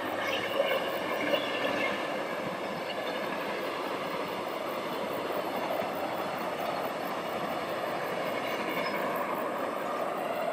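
Passenger train running past on the track: a steady rush of wheel and rail noise, with a few sharp knocks in the first couple of seconds.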